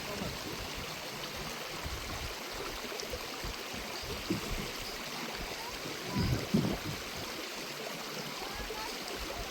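Water of a stream running steadily, with two or three low knocks a little past the middle.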